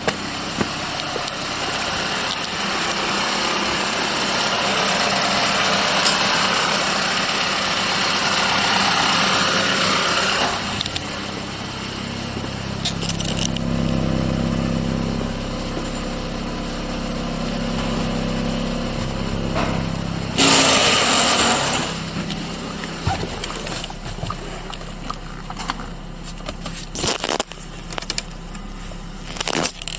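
Audi Q5's 2.0 TFSI (CDN) turbocharged four-cylinder petrol engine running at idle. A broad hiss lies over it for about the first third, then it settles to a steady low hum; about two-thirds through there is a brief louder burst of hiss, and a few sharp clicks come near the end.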